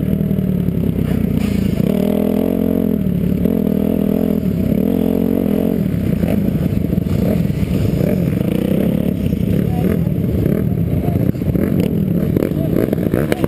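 Kawasaki KX250F's single-cylinder four-stroke motocross engine running hard close to the microphone, its note rising and falling with the throttle and gear changes, with chassis clatter over it. Near the end the engine sound turns uneven and pulsing.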